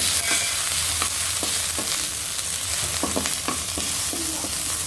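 Chopped garlic, green chillies and ginger sizzling in hot oil in a metal kadhai, with frequent short scrapes of a wooden spatula stirring them against the pan.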